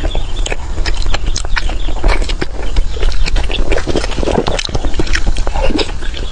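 Close-miked wet food sounds: a dense run of irregular clicks and smacks over a low steady hum.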